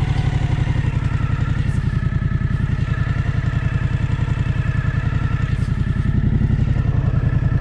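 Suzuki V-Strom 1050XT's 90-degree V-twin idling steadily with an even, rapid pulse.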